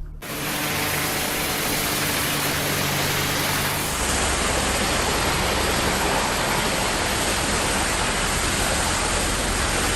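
Loud, steady rushing noise with no clear tone, changing abruptly in character about four seconds in.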